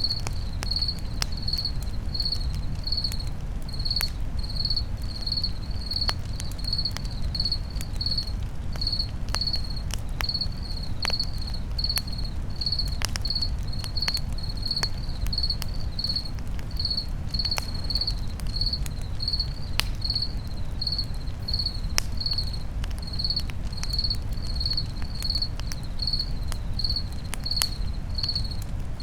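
Crickets chirping steadily at one high pitch, about two chirps a second, over a crackling campfire with sharp scattered pops and a low steady rumble.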